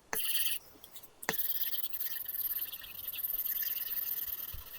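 Apple Pencil tip drawing on an iPad screen covered with paper-texture film: a short scratchy stroke, a sharp tap of the tip about a second in, then one long continuous scratching stroke.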